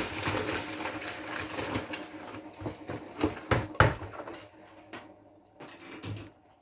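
Cooked tomatoes and their juice being poured from a pot into a strainer, with a few knocks and scrapes of the pot. It fades out near the end.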